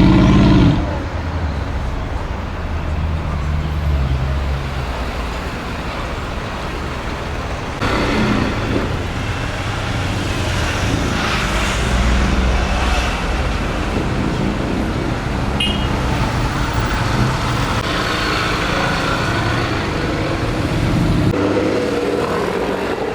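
Street traffic with car engines running at low revs, a steady low rumble. The sound changes abruptly about eight seconds in and again near the end.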